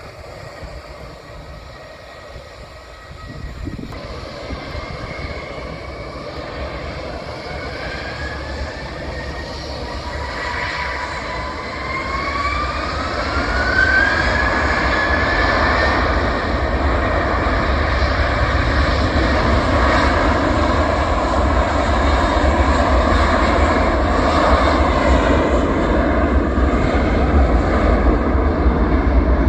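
Airbus A321-131's twin IAE V2530 turbofan engines at takeoff thrust. The jet noise grows steadily louder over the first fifteen seconds, with a whine that rises in pitch between about ten and sixteen seconds in. It then holds loud and steady with a deep rumble as the airliner accelerates and climbs away.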